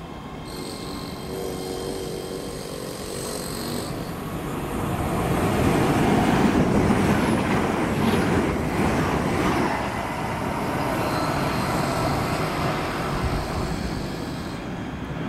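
A train passing at speed, with a steady high whine at first; the noise builds to a peak about halfway through and then eases off as the whine returns.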